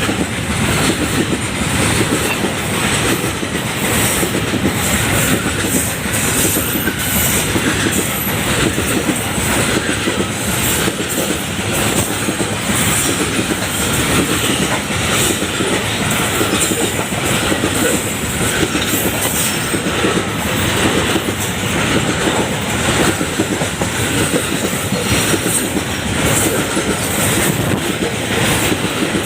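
Freight train wagons rolling past at close range, a loud, steady rumble and clatter of steel wheels on the rails with some wheel squeal.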